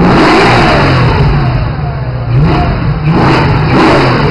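Alfa Romeo 8C Spider's 4.7-litre V8 being revved in repeated blips, the engine note rising sharply and falling away three times.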